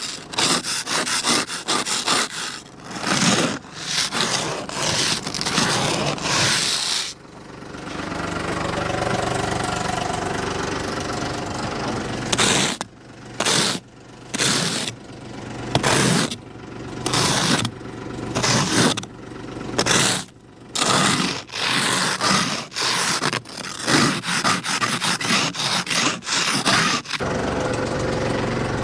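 Repeated scraping strokes, one after another, with a longer, steadier stretch of rubbing noise partway through.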